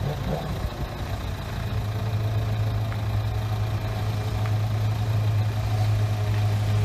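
Motorcycle engine idling with a steady low hum, getting louder about two seconds in and then holding even.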